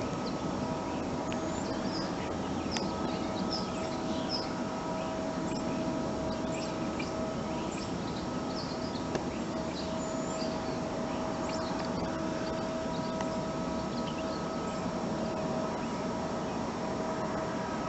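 Small birds chirping here and there, short high calls, over a steady hum that carries a constant whining tone.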